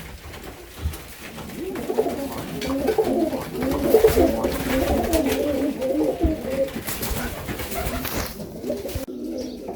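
Domestic pigeons cooing, several low, rolling coos that repeat and overlap.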